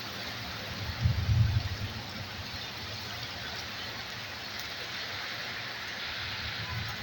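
Heavy rain falling steadily, an even hiss of the downpour. A brief low rumble rises over it about a second in.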